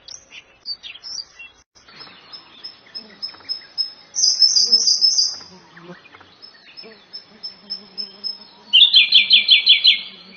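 Songbirds singing: scattered high chirps, then a thin high note repeated over and over, a loud fast trill about four seconds in, and near the end a loud run of about eight quick falling notes.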